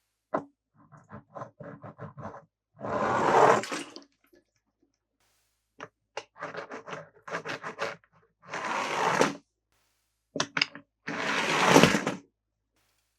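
Plastic toy car playset in use: a run of quick clicks, then a rushing slide that swells and stops abruptly, three times over. This fits die-cast toy cars rattling along and sliding down a plastic track.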